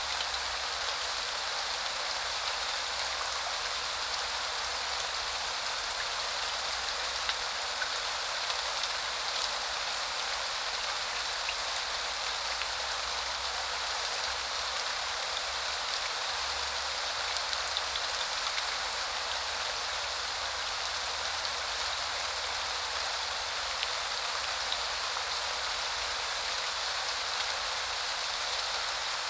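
Steady spring rain falling and pattering on surfaces, an even hiss with scattered individual drop ticks.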